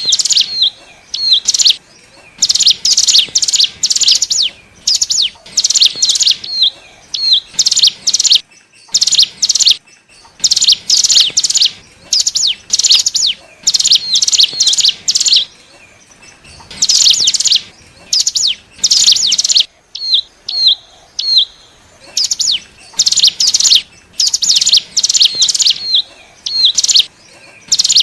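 Hill prinia (ciblek gunung) song used as a trapping lure: bursts of rapid, high chattering notes, each about a second long, repeated over and over with short pauses. Some pauses hold a few single hooked notes.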